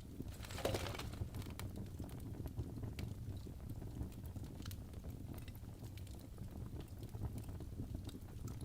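Burning logs in a fireplace crackling, with scattered sharp pops over a steady low rumble of the flames; a louder hissing crackle comes about half a second in.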